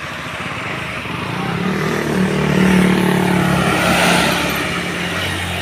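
A road vehicle passing close by: its engine and tyre noise build, peak about three seconds in, then fade.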